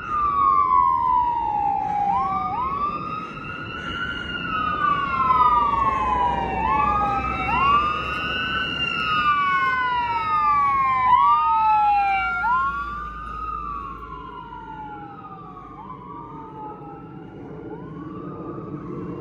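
Emergency sirens wailing on a fire engine and an ambulance responding together, two sirens out of step. Each one falls slowly in pitch and then snaps back up. The sirens fade after about twelve seconds as a low engine rumble grows louder.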